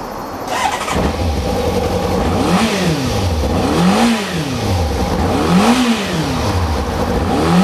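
Kawasaki ZZR600 inline-four engine with a Devil aftermarket silencer, revved loud in quick throttle blips at a standstill. The revs climb sharply to around 7000 rpm and drop back, about once every second and a half, showing the engine's quick, sharp rev response.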